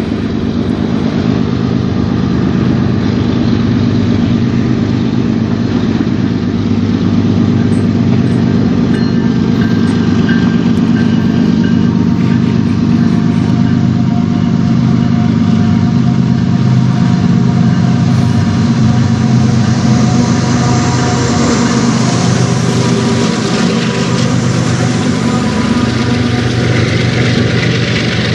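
Diesel freight locomotives approaching with their engines drumming steadily, then rolling past with a rising rush and clatter of steel wheels on rail over the last several seconds as the cars follow.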